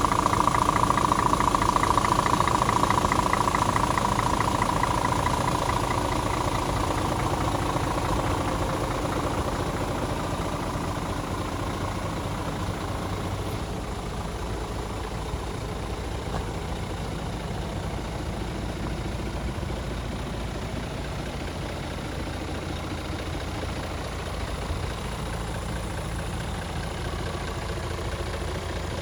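Scania R450 truck's 13-litre inline-six diesel idling steadily. A higher whirring tone sits on top for the first several seconds, then fades as the idle settles.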